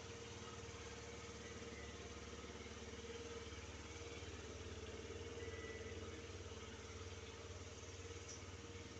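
Yamaha Vino scooter engine idling steadily through its stock muffler.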